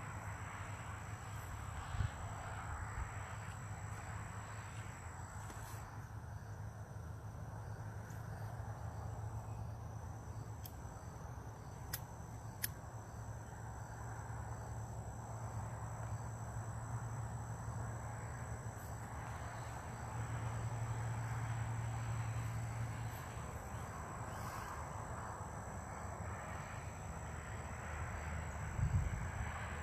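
Outdoor ambience: a steady high insect drone over a low rumble and a soft hiss, with a few faint clicks.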